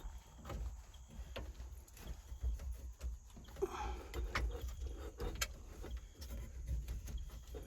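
Scattered light clicks, knocks and scrapes of hand work: the turn signal switch's wiring being worked down through the steering column, with a low rumble underneath.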